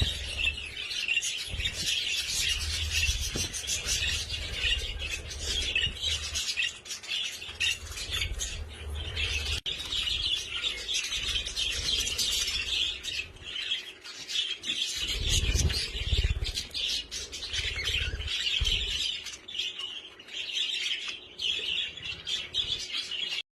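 Bird chirping rapidly and continuously in a high, steady stream of chirps, with low rumbles underneath at times.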